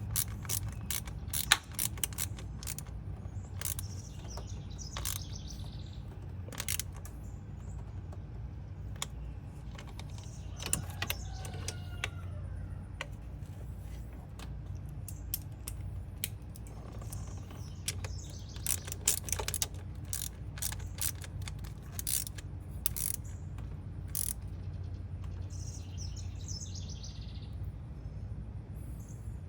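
Hand tools and metal parts clicking and clinking at irregular moments during engine work, over a steady low hum, with a few faint bird chirps.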